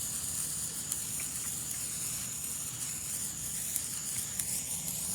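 Handheld sparklers burning with a steady fizzing hiss and a few faint crackles.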